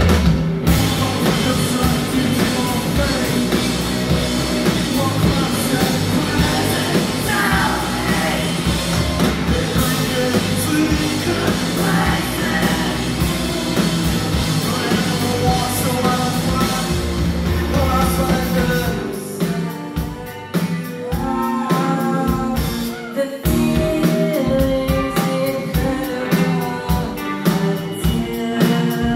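Rock band playing live at full loudness, drums and guitars together. About two-thirds of the way through it drops to a sparser passage with separate drum hits and clearer pitched lines.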